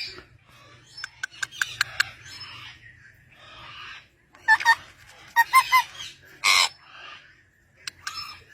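Pet parrot making short clicks and brief warbling calls, with one loud harsh squawk about six and a half seconds in.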